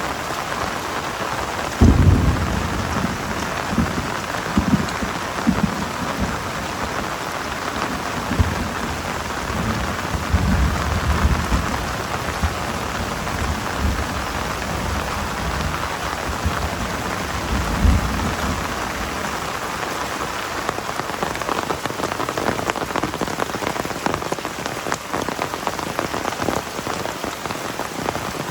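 Heavy rain falling steadily, with several brief low rumbles, the loudest about two seconds in.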